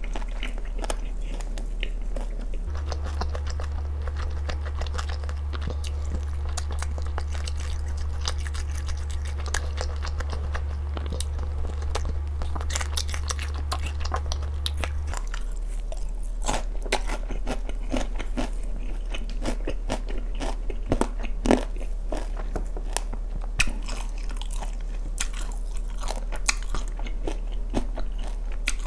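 Close-miked eating of sauced fried chicken: irregular crunching bites and chewing with wet mouth sounds, the crunches sharpest in the second half. A steady low hum runs underneath, stronger in the first half.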